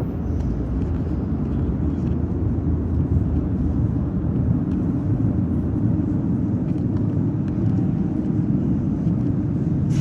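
Moscow Metro "Moskva" train running between stations, heard from inside the carriage: a steady, loud low rumble of wheels and motors on the track.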